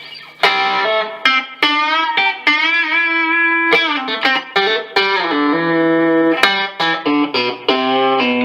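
Electric guitar (a Stratocaster played on its bridge humbucker) playing a lead line of picked single notes, with one note held and wavering in pitch about two seconds in.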